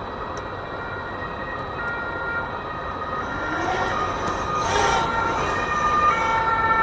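Motors of a 3D-printed long-range FPV quadcopter whining as it flies, the whine holding and then jumping between several pitches and growing louder. There is a brief whoosh about five seconds in.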